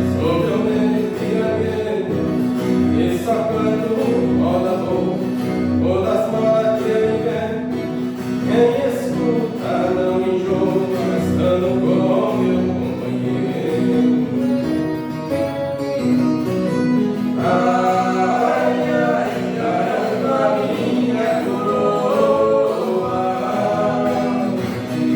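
Voices singing a Brazilian caipira song together over strummed guitar accompaniment.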